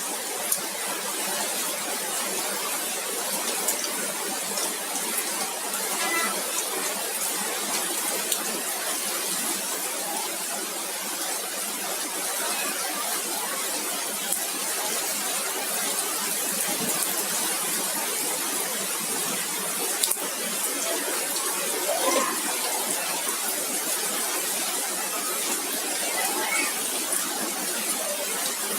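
Heavy rain with hail falling in a steady hiss, with a few sharp ticks of hailstones striking hard surfaces.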